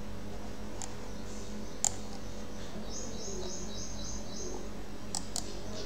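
Quiet room tone with a steady low hum, a few short clicks, and, about three seconds in, a quick run of high chirps from a bird.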